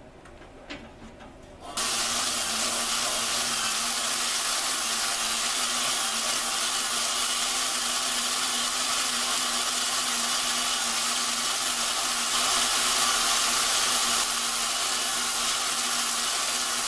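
A drill starts with a click and runs steadily, spinning an engine valve against its seat in the cylinder head to lap it with grinding compound. The sound is a steady hiss over a motor hum, a little louder for a couple of seconds near the end.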